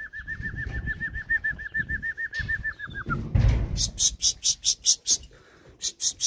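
A bird trilling: a rapid, even run of about eight chirps a second that stops about three seconds in, followed by a dull thump and then quick runs of sharp, high chirps.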